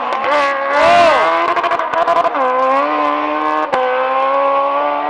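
Drag car engine revving hard at high revs. The revs climb and dip about a second in, then a brief run of crackling pops follows, and the engine holds steady high revs for the rest.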